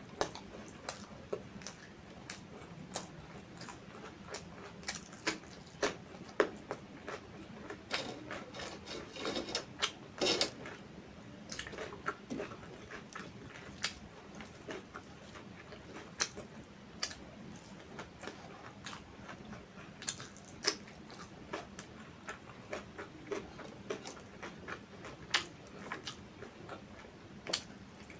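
Close-up eating sounds: irregular wet clicks and smacks of a mouth chewing food, coming in clusters and busiest around a third of the way in.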